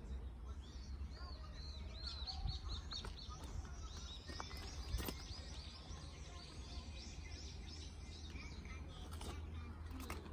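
Small birds chirping in quick series of short high notes over a steady low rumble, with a sharp knock about five seconds in.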